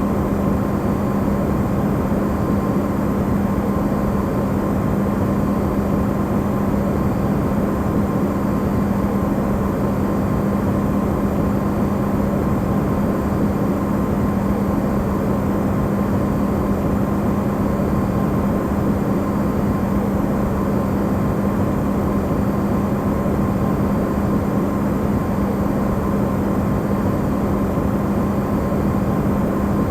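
Amplified running hum of an Electrolux refrigerator, played as white noise: a steady low drone with a strong constant tone and an even rush of noise beneath it.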